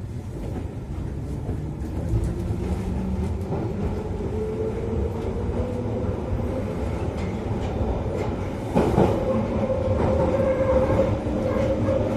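London Underground Piccadilly line train pulling away and running, heard from inside the carriage. A steady rumble and clatter runs under a motor whine that rises in pitch over the first few seconds and then holds steady, and there is a sharp clatter about nine seconds in.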